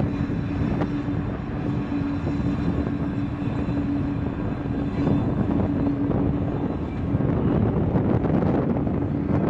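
Iron ore train passing: the diesel locomotives give a steady drone over the continuous rumble of the ore wagons rolling along the track.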